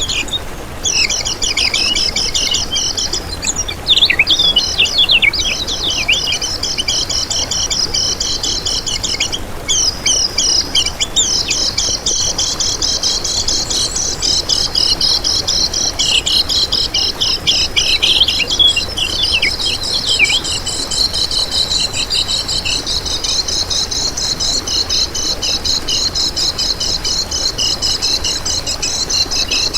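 Kecial kuning songbird singing a fast, continuous, high twittering chatter, a bird in full song of the kind used as a tutor and lure recording.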